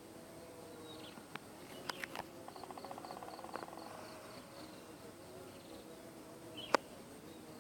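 Strange insect-like sound from a tree: a faint steady hum with a rapid pulsing buzz a couple of seconds in and a regular run of high chirps, about five a second. A few sharp clicks, the loudest near the end.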